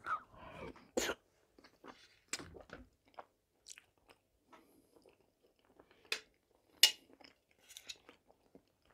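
A person chewing a soft boiled dumpling filled with potato (vareniki) close to a clip-on microphone: quiet wet mouth noises, with a few sharp smacking clicks scattered through.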